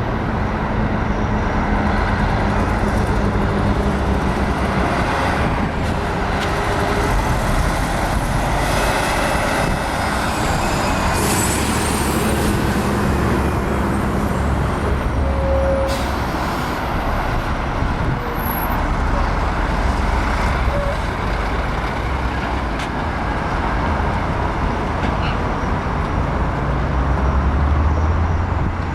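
Heavy diesel trucks running and passing at close range, their engines droning low and rising and falling as they move, with short hissing bursts about 11 and 16 seconds in.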